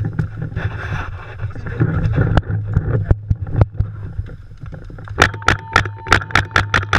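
Paintball marker firing: a few single shots, then from about five seconds in a rapid, even string of about six shots a second, with a steady tone beside it.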